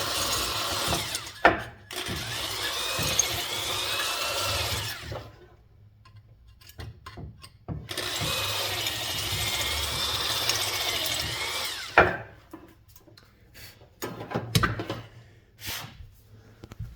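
Electric drill bit boring out and bevelling the holes in a box fan motor's metal bushing housing. The drill runs twice for about four to five seconds each, with a wavering whine as the bit cuts the metal. A sharp click follows, then a few light clicks and knocks as the part is handled.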